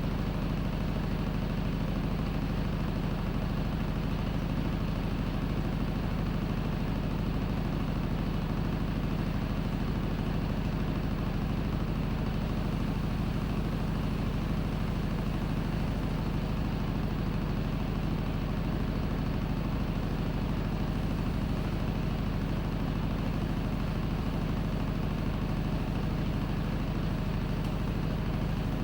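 Panasonic NA-FA100H9 top-loading washing machine running, a steady motor hum with an even whir over it and no break in the sound.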